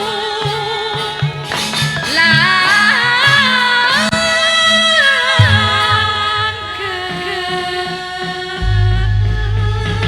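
A singer sings a long, wavering melodic line with vibrato and held notes over instrumental accompaniment with a low, regular beat. A deep low note comes in near the end.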